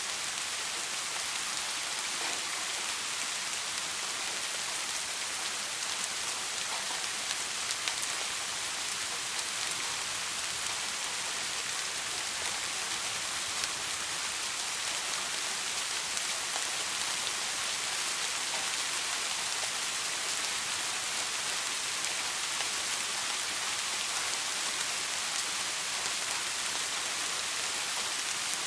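Soft rain falling steadily, an even hiss with many small drop ticks spread through it.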